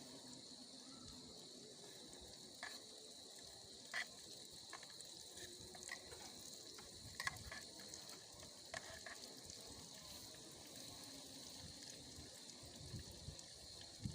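Faint steady hiss with a high, even tone running through it, broken by a few scattered light clicks and taps.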